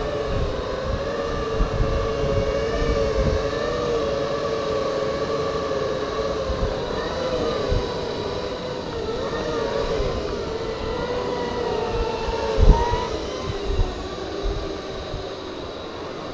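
Segway electric drive motors whining, the pitch wavering up and down as speed changes, with wind rumbling on the microphone and a single thump about twelve and a half seconds in.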